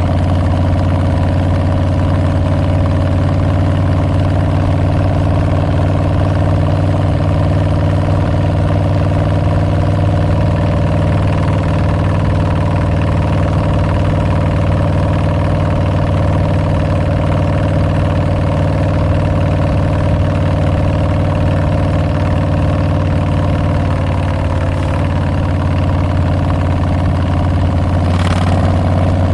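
Harley-Davidson Street Bob's Milwaukee-Eight 114 V-twin running steadily through Tabs Performance slip-on mufflers with Zombie baffles, with no revving. A brief noise near the end.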